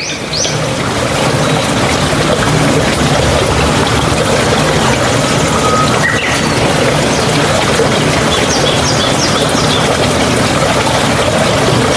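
Mountain stream running, a steady loud wash of water, with a few faint high bird chirps, a quick run of them about nine seconds in.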